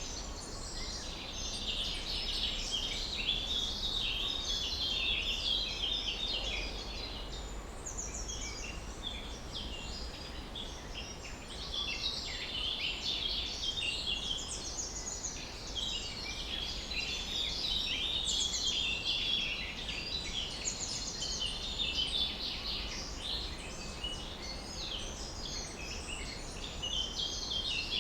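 Many songbirds chirping and trilling at once, their short overlapping calls running without pause over a low steady background rumble.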